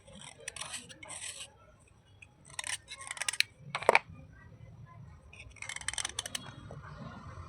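Slate being crunched and scraped in short crisp bursts, with one sharp snap just before the four-second mark.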